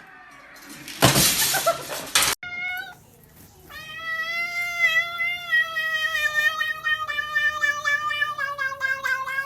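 A cat yowling: a short meow, then one long drawn-out yowl of about six seconds that slowly sinks in pitch. It is preceded by a loud burst of hissing noise lasting over a second.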